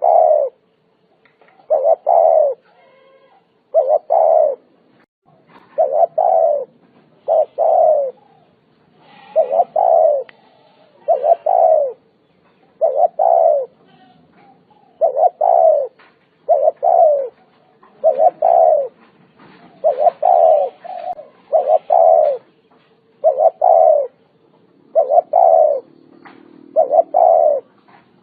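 Spotted dove cooing over and over: short, low coo phrases repeated about every second and a half.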